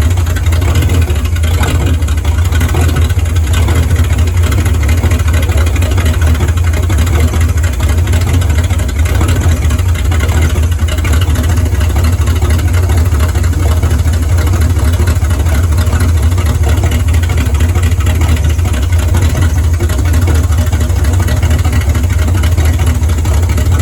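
Dodge Dart Sport's engine running steadily at an even speed, a loud low-pitched drone with no revving.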